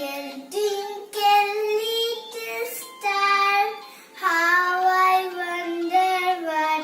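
A child's voice singing a nursery rhyme in slow, held notes.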